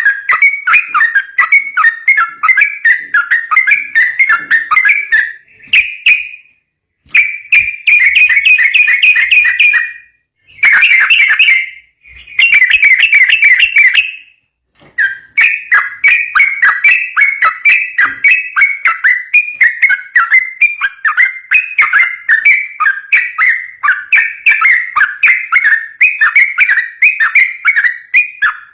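Yellow-vented bulbul singing a fast, unbroken run of short repeated notes in rapid-fire "ropel" style. The run breaks off for a moment several times in the first half.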